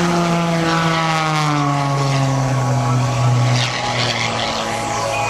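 Propeller aircraft engine passing by, its pitch falling over the first few seconds and then holding steady.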